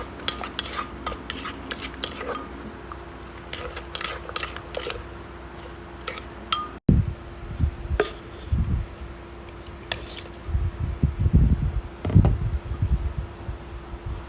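Dishes and utensils clinking and knocking during food preparation: sharp clinks in the first half, then dull low thumps after a brief gap about seven seconds in. A faint steady hum runs underneath.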